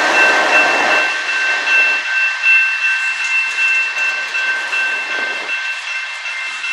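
Freight cars of a Canadian Pacific mixed freight train rolling through a road crossing with steady wheel noise and clatter, while the crossing bell rings on. The deeper rumble from the trailing ES44AC locomotive drops away about a second in.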